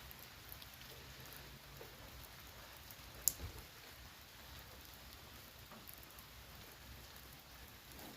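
Faint rain pattering steadily, with scattered tiny drips and one sharp click about three seconds in.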